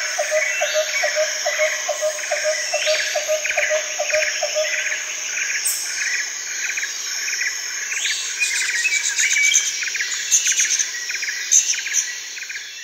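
Outdoor chorus of birds chirping over a steady insect trill, with a low note repeating about three times a second for the first few seconds. Sharper high bird chirps come later, and the sound fades out near the end.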